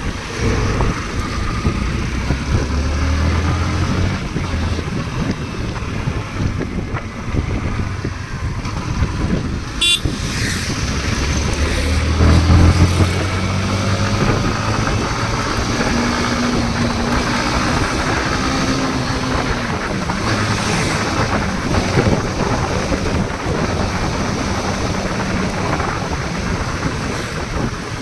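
A motor vehicle's engine running, with steady rushing noise.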